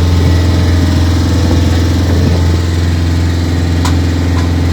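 Motorboat engine running at a steady speed with a constant low hum.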